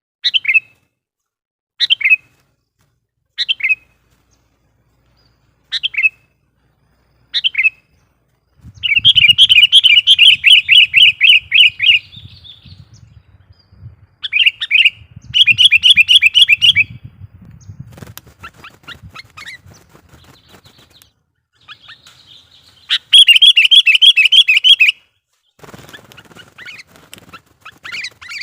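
Sooty-headed bulbul (kutilang) calling: single sharp notes about every second and a half, then loud rapid chattering runs of several seconds, three times. A low thumping sounds under the first two runs.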